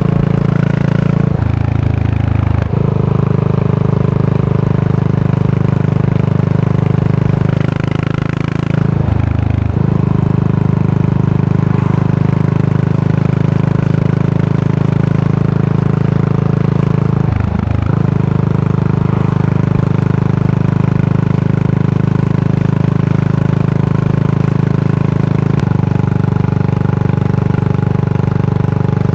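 Yamaha SR400's air-cooled single-cylinder engine running steadily through a Goods Tapered Cone slip-on muffler, its exhaust note briefly dropping away three times, about one and a half, nine and seventeen and a half seconds in.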